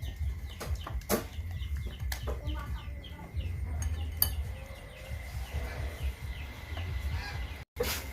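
Chickens clucking, short calls repeated many times, with a few sharp knocks.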